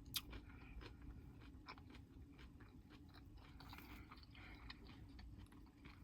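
Faint chewing of crunchy salad greens, a few soft irregular crunches and clicks over a low room hum.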